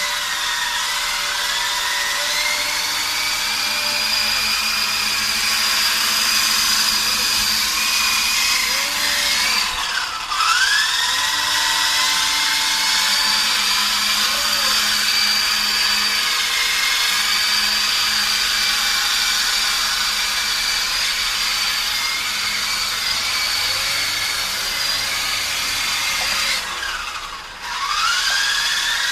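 Radio-controlled helicopter's motor and rotor running with a high-pitched whine whose pitch wavers up and down. Twice, about ten seconds in and again near the end, the whine falls sharply and quickly rises back up.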